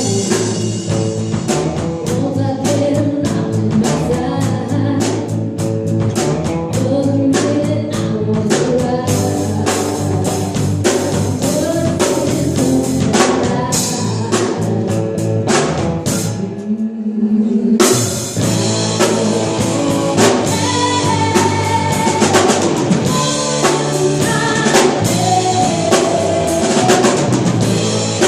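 Live band music with a drum kit keeping a steady beat under bass and other instruments. Over halfway through, the band stops for about a second on a single low sliding note, then comes back in.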